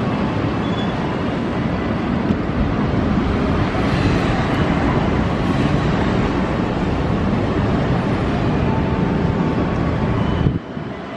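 Passenger train running along the station tracks, a steady low rumble of wheels on rail that cuts off abruptly near the end.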